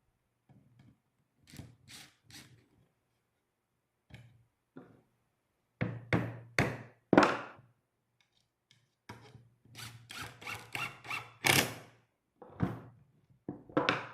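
Irregular wooden knocks and thunks, a dozen or more, in clusters with short pauses between, the loudest about halfway through and again near the end.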